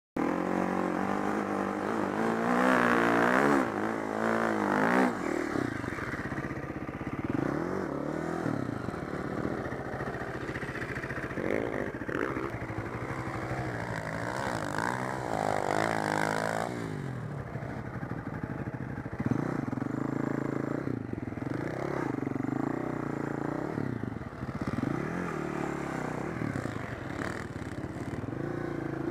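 Four-stroke single-cylinder dirt bike engine being ridden off-road, its revs rising and falling again and again as the throttle is worked.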